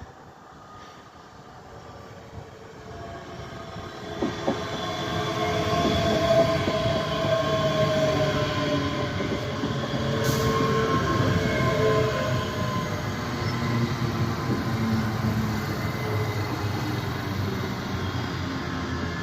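A train approaching along the platform, growing louder over the first six seconds and then holding a steady heavy rumble with high squealing tones from the wheels on the rails.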